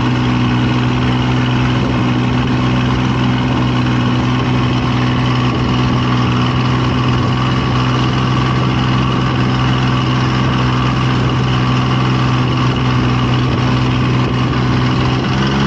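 An engine running steadily at an even, unchanging pitch, with a deep hum.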